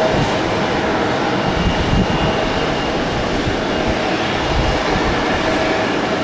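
Jet airliner engines passing close by: a steady, loud rush of noise with a faint high whine running through it.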